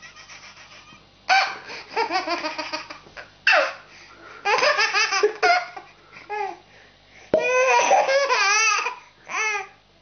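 Baby belly-laughing: about six high-pitched fits of laughter with short gaps between them, the longest one near the end.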